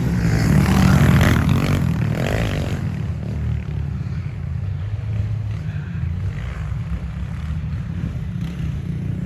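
Small four-stroke 110cc pit bike engines running laps on a dirt track, a steady buzzing drone that is loudest for the first couple of seconds as the bikes pass close, then settles lower as they move off.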